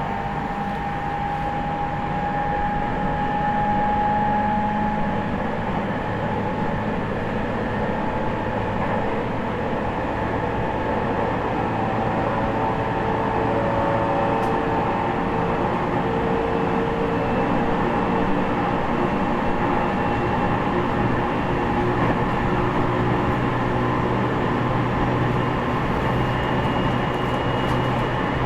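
Interior running sound of an E501 series electric commuter train's motor car at speed: steady wheel and rail noise with the whine of the traction motors and Toshiba IGBT inverter. Several thin tones drift slowly in pitch.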